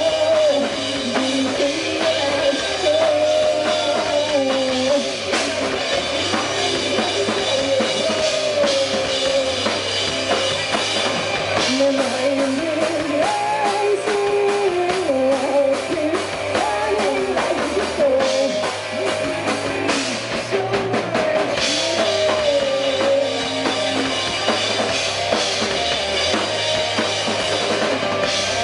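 Rock band playing: a full drum kit with bass drum and snare driving under a wavering melodic lead line.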